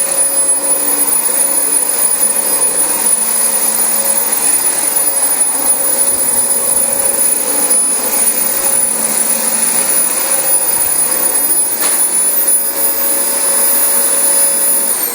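Dyson DC25 upright vacuum cleaner running on carpet with a steady high-pitched motor whine; right at the end it is switched off and the whine falls away as the motor spins down.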